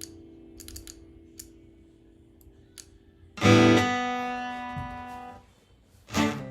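Acoustic-electric guitar: a chord fading out with a few faint clicks, then one loud strummed chord about three and a half seconds in that rings and dies away, and rhythmic strumming starting near the end.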